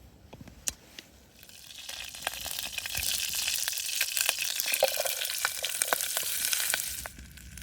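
Food sizzling in a hot pan, a dense hiss full of small crackles that builds up over about a second and stops abruptly near the end.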